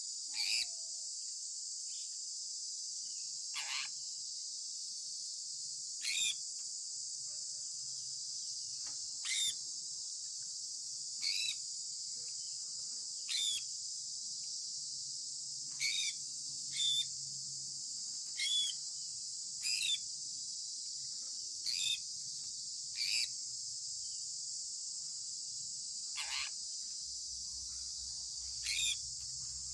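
Sun conure parrot giving short, sharp chirps, about fourteen of them one to three seconds apart, over a steady high-pitched hiss like a cricket chorus.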